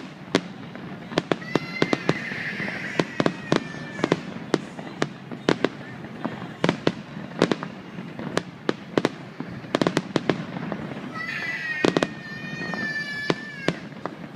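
Fireworks display: a rapid run of sharp bangs from bursting shells, several a second, with two long whistling tones, one a couple of seconds in and one past the middle.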